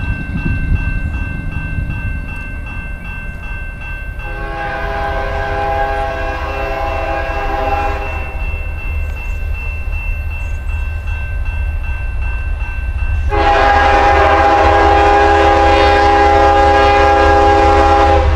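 Freight diesel locomotive air horn sounding two long chord blasts, the first about four seconds long, the second louder and still sounding at the end, over the steady low rumble of the train.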